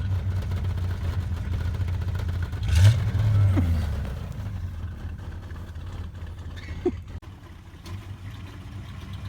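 Pickup truck engine running, revving up sharply about three seconds in with a loud burst of noise at the peak, then dropping back and running quieter.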